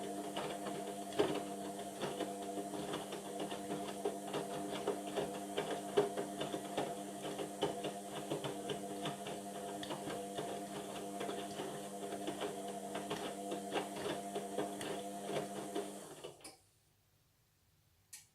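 Indesit washing machine running its Cotton 40 cycle: a steady motor hum with many small clicks and rattles from the turning drum. The sound cuts out abruptly about two seconds before the end, with one click in the silence.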